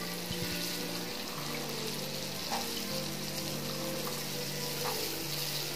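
Green peas and masala sizzling steadily as they fry in oil in a wok. Soft background music with held notes plays under it.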